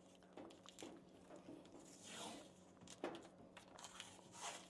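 Faint rasps of tape being pulled off the roll and torn, with handling rustle and a sharp click about three seconds in.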